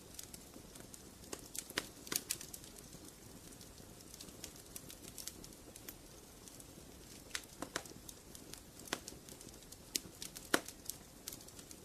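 Wood fire crackling in a fireplace: irregular sharp pops and snaps over a low steady hiss, with small clusters of snaps about two seconds in, around eight seconds and near the end.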